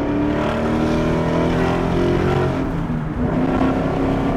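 2018 Mustang GT's 5.0 Coyote V8 running through a Corsa Extreme active valve exhaust, heard from inside the cabin while driving; the engine note briefly dips and changes pitch about three seconds in.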